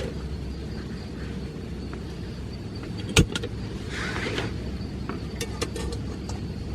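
Heavy rain on a camping shelter, heard from inside as a steady low rumble. There is one sharp knock about three seconds in and brief rustling just after.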